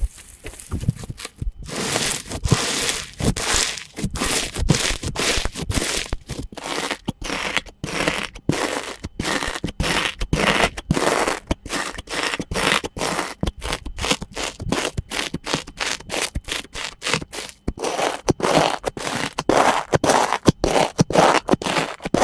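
Slime being squeezed and pressed by hand: a fast run of short squishing, crunching sounds with brief gaps between them, about two to three a second.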